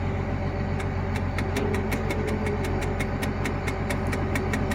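An engine idling steadily, with a rapid, regular ticking of about six ticks a second that starts about a second in.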